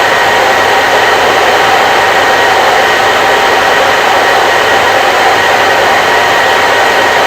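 Hair dryer blowing steadily, a constant loud rush of air with a faint steady motor whine.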